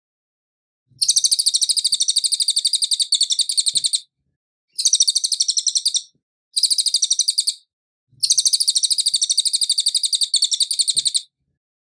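Cililin songbird singing four bouts of fast, high-pitched trilled notes in rapid even pulses, the longest lasting about three seconds, separated by short pauses.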